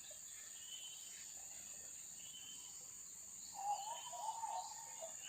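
Steady high-pitched drone of insects, crickets or cicadas, at low level. About three and a half seconds in, a faint wavering call rises briefly above it for about a second.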